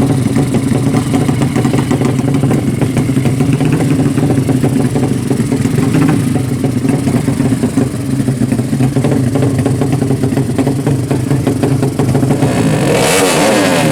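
Motorcycle engines running steadily. About a second before the end, a louder engine sound comes in with sweeping pitch and a rushing hiss.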